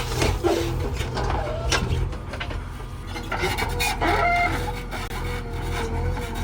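Diesel engine of heavy machinery running steadily, with scattered scraping and knocks. A rooster crows about three to four seconds in.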